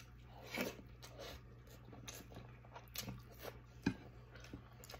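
A person chewing a mouthful of leftover paksiw na pata (braised pork leg) close to the microphone. Soft, irregular mouth smacks and clicks come about once a second.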